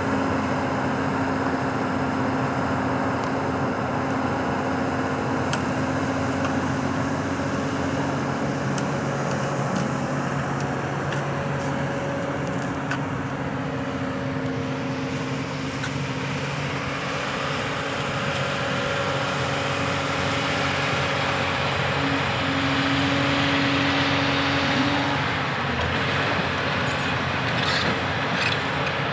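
Heavy diesel engine of earthmoving machinery running steadily, its pitch shifting a little as the machine works, with a few light knocks near the end.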